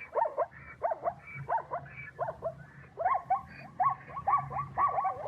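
Zebra calling: a run of short barking calls, each sliding up and down in pitch, coming closer together from about three seconds in.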